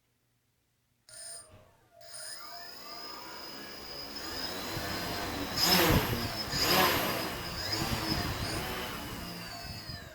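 Home-built multirotor drone's brushless motors and propellers spinning up from standstill: a whirring whine that starts about two seconds in, rises and falls in pitch as the throttle changes, surges loudest twice in the middle and then eases off. The noise is very loud.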